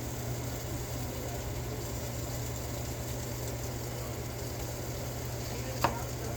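Steady low machine hum, with a single sharp click near the end.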